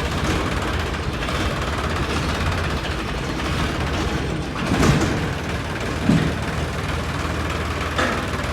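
Sonalika 745 tractor's diesel engine running steadily with a low rumble, with a few brief louder bursts about five and six seconds in.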